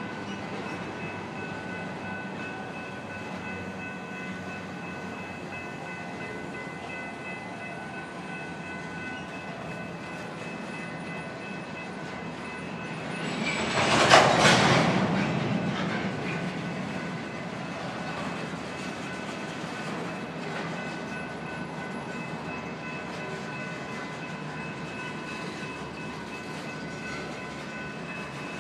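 BNSF grain train of covered hopper cars rolling slowly past, with the steady rumble and clatter of wheels on rails and a faint steady high whine. About 14 seconds in, a sudden loud surge of noise swells up and fades away over roughly two seconds.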